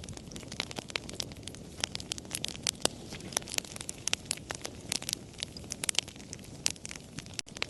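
Wood campfire crackling: frequent, irregular sharp pops and snaps over a low steady rush of burning. The sound drops out for a split second near the end.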